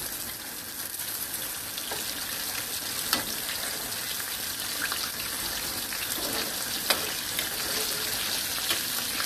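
Breaded squash slices sizzling in hot oil in a cast iron wok as they are turned, with a few sharp clicks of a metal slotted spoon against the pan.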